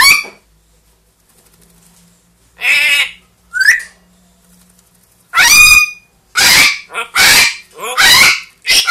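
Pet parrot squawking loudly in separate harsh calls. There is one call at the start and two more about three seconds in, then a run of calls about once a second from five seconds on.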